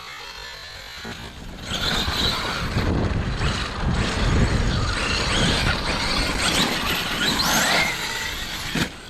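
Electric 30° North 5T RC monster truck on 12S power driving hard over dirt: the motor whines up and down in pitch over tyre and gravel noise. It starts loud about a second and a half in and cuts off suddenly near the end.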